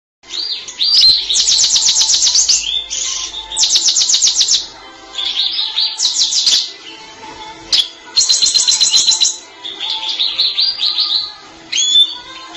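A small songbird singing loud, rapid trilled phrases in a series of high bursts, with short pauses between them.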